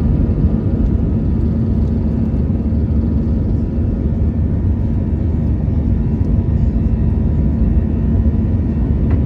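Airbus A320's jet engines running, a loud steady rumble.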